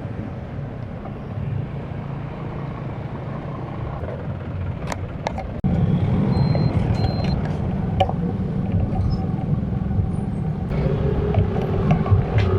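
Road traffic heard from a moving bicycle: a steady rumble of vehicle engines and tyres with wind noise, a few light clicks, and a sudden step up in loudness about halfway through.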